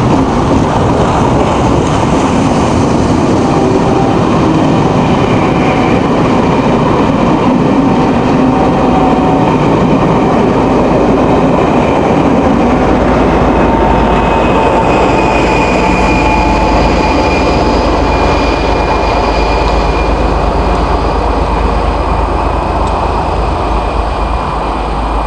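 Class 50 diesel-electric locomotives working hard as the train pulls away, a loud continuous engine sound with steady whistling tones from the turbochargers. A deeper low rumble builds about halfway through.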